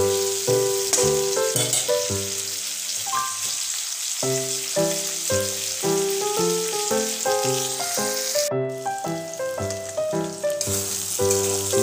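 Okra frying in mustard oil in a kadai: a steady sizzle that cuts out for about two seconds near the end. Under it runs instrumental background music, a melody of short, evenly paced notes.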